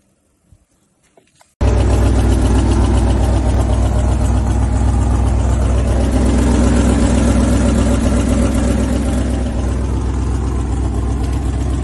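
1967 International Loadstar 1600's gasoline V8 engine running steadily, with a strong low rumble. It comes in abruptly about a second and a half in, after near silence with a few faint clicks.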